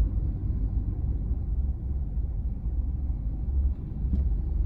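Car driving on a road: a steady low rumble of engine and road noise.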